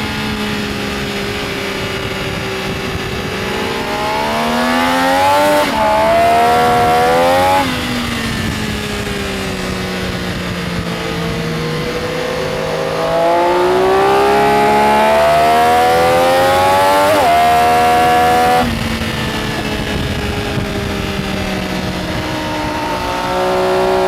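Benelli Tornado Tre 900's inline three-cylinder engine on track, pulling twice through rising revs, louder than the steadier running between. A quick upshift breaks each pull, and each ends with the throttle shut and the revs falling away.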